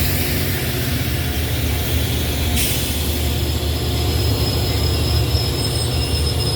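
A train passing on the line with a steady heavy rumble, and a thin high-pitched wheel squeal coming in about midway.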